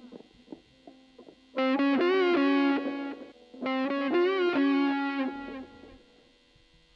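Electric guitar played through the stage sound system during a sound check: a few quiet picked notes, then two loud sustained phrases with bent notes, each about two seconds long, with a short gap between them.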